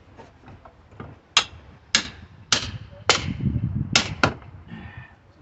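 Mini sledgehammer blows on a wood pallet and crowbar as the boards are knocked apart: six sharp strikes about half a second apart, each with a short ring, the last two in quick succession.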